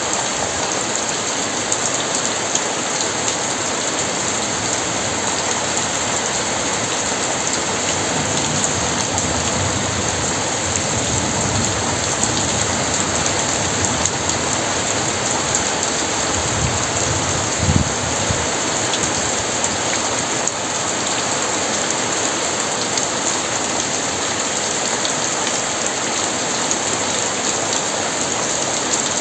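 Very heavy rain falling steadily. Low thunder rumbles come in through the middle, the strongest a short rumble a little past halfway.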